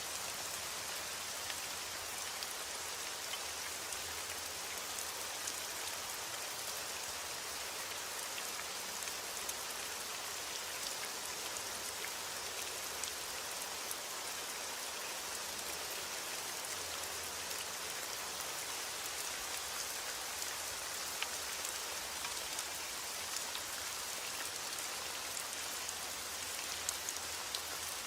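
Steady rain falling: a dense, even hiss of rain with many small individual drop taps scattered through it.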